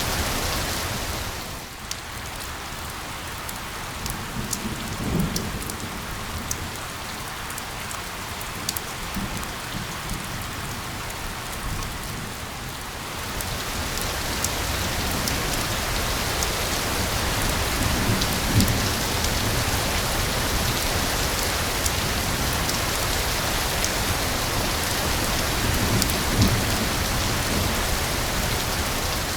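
Steady rain falling, with separate drops ticking, and a few low rumbles of thunder. The rain grows heavier about halfway through.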